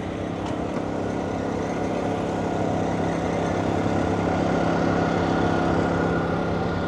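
A vehicle engine running steadily at low revs, growing louder toward the middle and easing off a little near the end.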